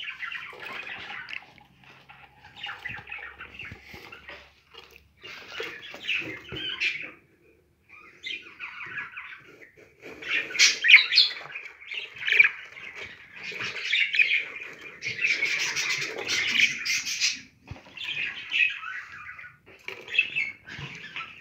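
Budgerigars chattering and squawking in bursts of busy, warbling calls, with short pauses between phrases and the loudest stretch about halfway through.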